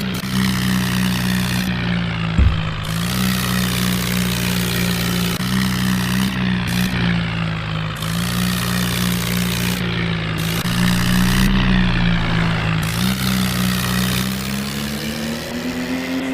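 Remote-control toy tractor running: a steady engine-like drone whose pitch shifts up and down every second or two, with a brief knock about two and a half seconds in.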